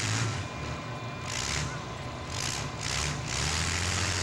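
Engines of compact demolition derby cars idling, a low steady rumble that grows louder about three and a half seconds in, with a few short bursts of noise over it.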